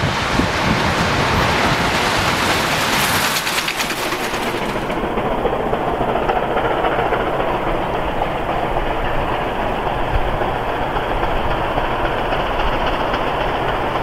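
A train running on the rails, a steady loud rumble. About five seconds in the sound turns duller and loses its hiss.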